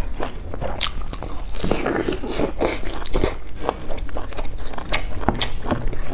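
Biting and chewing a pan-fried Chinese chive pocket (jiucai hezi), its crisp fried crust crackling and crunching in many quick sharp crackles, thickest about two to three seconds in.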